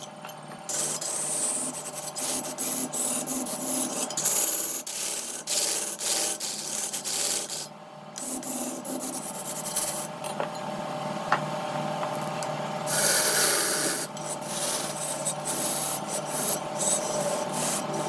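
Wood lathe running with a steady hum while a tool is pressed against the spinning wood in irregular bursts of scraping, with brief pauses about half a second and eight seconds in.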